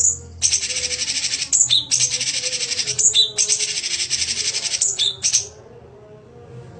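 Songbird singing three long, very rapid buzzing trills, each closed by a few short sharp notes, then falling quiet about two-thirds of the way through.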